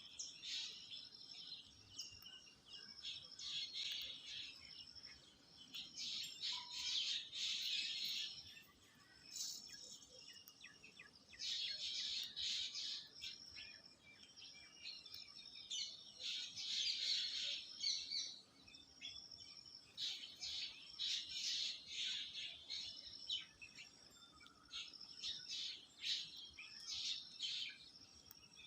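Birds chirping in repeated bursts of rapid high calls, each lasting a second or two, with short quieter gaps between them.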